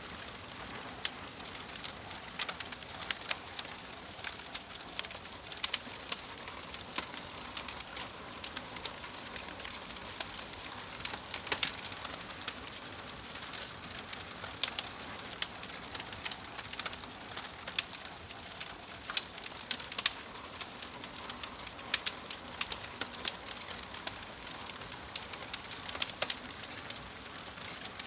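Wood fire in a fireplace crackling, with irregular sharp pops and snaps, several a second at times, over a steady soft hiss.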